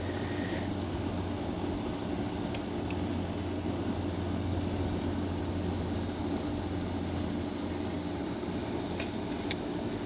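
Steady low machine hum, with a short scrape just after the start and a few light clicks later on, from stripping the ends of the motor's supply wires.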